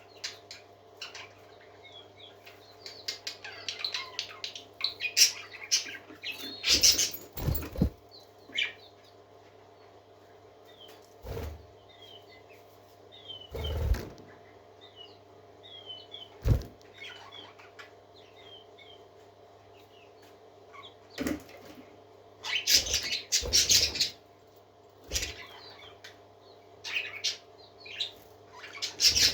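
Parakeets chirping and twittering in many short, quick calls, broken by several short louder bursts with a cluster near the end. A steady low hum runs underneath.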